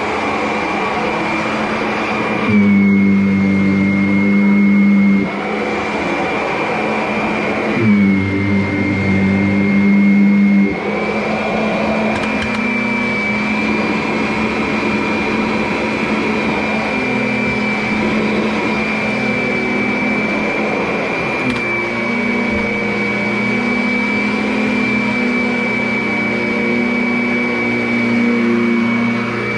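Vacuum cleaner running with a steady high motor whine that drifts slightly up and down in pitch as it works. Twice, for two or three seconds each, it gets louder with a deeper hum.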